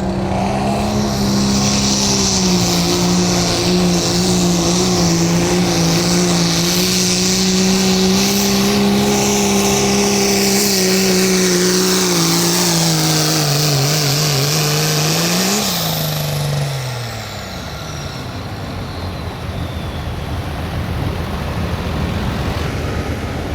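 Diesel pickup truck engine held at high rpm under full load while pulling the sled, running at a steady pitch for about fifteen seconds. Then the revs flare briefly and fall away as the truck lets off at the end of the pull, leaving a quieter engine and falling tones.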